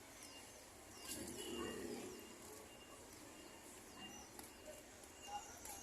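Faint chirping of small birds: many short, high downward chirps, with a thin peep repeating at a steady interval.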